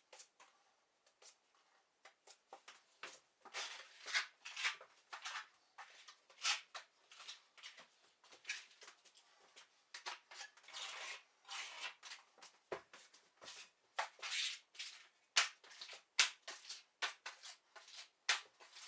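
Plastering tool scraping over a wall in quick, irregular strokes, with a few louder strokes now and then.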